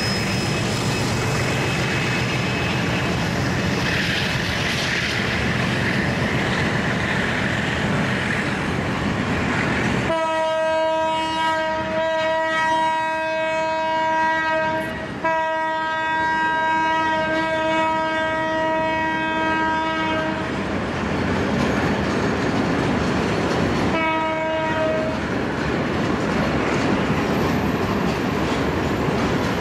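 Freight train of tank wagons rolling past, steel wheels running over the rails. About ten seconds in, a train horn sounds one long single-note blast of about ten seconds, broken for an instant halfway, then a short second blast near the end.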